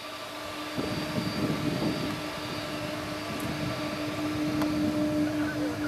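Airbus A330-200 jet engines running with a steady whine over a low rumble that grows about a second in.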